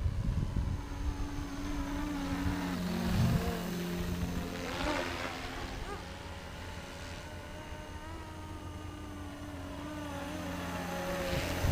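470-size scale Cobra RC helicopter in flight, its motor and rotor humming steadily with the pitch sliding up and down a few seconds in and again near the end as it manoeuvres.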